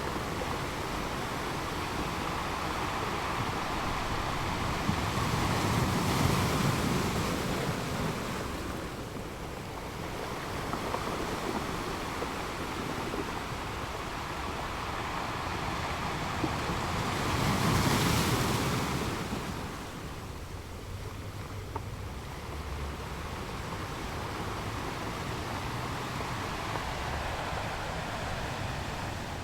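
Waves washing with wind: a steady rush that swells louder twice, about six seconds in and again a little past the middle.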